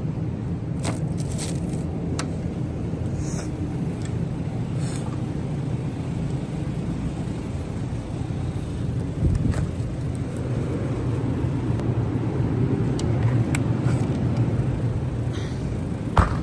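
Car driving, with a steady low rumble of engine and road noise. A few faint clicks and a short knock near the end.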